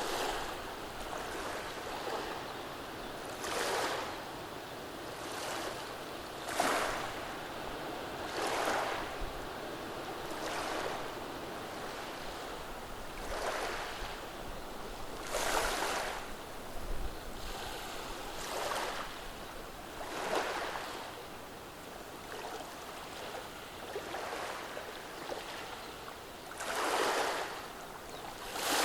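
Gentle waves washing over a beach of round stones, a steady wash with soft surges every two to three seconds as each small wave runs up and draws back through the pebbles.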